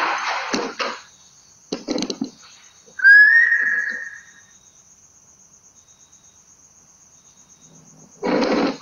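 A single loud whistle-like note about three seconds in, rising slightly in pitch and held for about a second and a half. Under it, crickets trill steadily with an even pulse.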